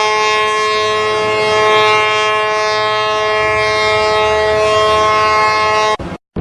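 A ship's horn sounding one long, steady blast of several tones at once, which cuts off abruptly about six seconds in.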